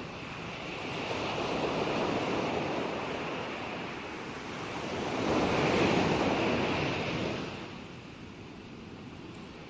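Gentle ocean waves washing in, two swells of surf rising and falling, the louder one about six seconds in, easing off near the end.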